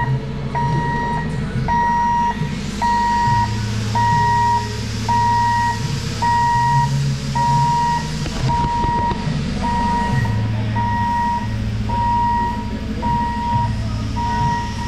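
A vehicle's reversing alarm beeping steadily, about one beep a second, each beep a single held tone, over a running engine whose rumble rises and falls.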